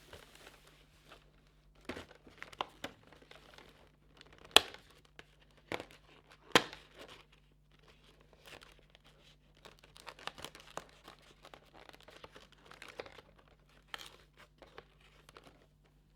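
Hands opening a cardboard advent calendar door and unwrapping a small item from crinkly packaging: paper tearing and plastic crinkling, broken by a few sharp clicks, two of them loudest about four and a half and six and a half seconds in. A longer stretch of crinkling follows near the end.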